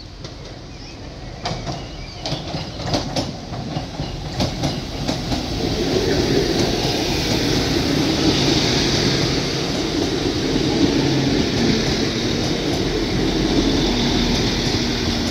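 Northern Ireland Railways Class 4000 diesel multiple unit approaching and passing close by. A run of sharp wheel clicks comes as it nears, then a steadily growing rumble of engines and wheels on the rails from about six seconds in.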